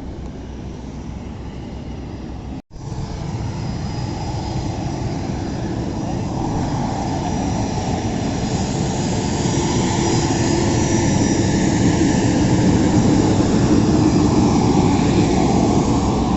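Aircraft engine noise, a steady dense rumble with a faint whine on top, cut off for an instant a few seconds in and then growing gradually louder.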